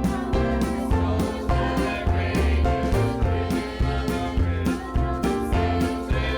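Church choir singing with instrumental accompaniment that keeps a steady beat.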